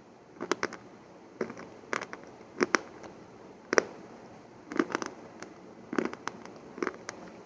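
Close-miked crisp crunching: short clusters of sharp cracks about once a second, about seven in all.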